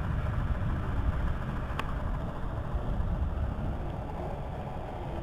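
Low, steady rumble of a thunderstorm that slowly fades and swells again near the end, with one faint click about two seconds in.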